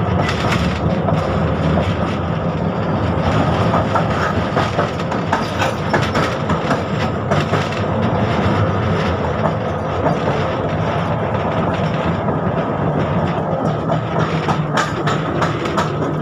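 71-605 (KTM-5M3) tram car running along the track: a steady rumble with wheels clicking over rail joints and a steady hum from the running gear.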